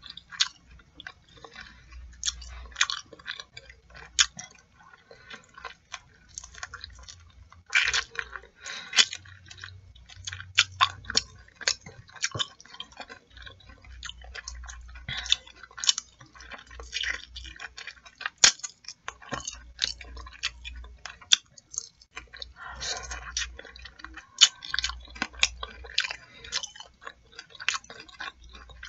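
A person chewing and biting sauce-coated fried chicken wings, with irregular short mouth clicks and smacks throughout and a few louder ones.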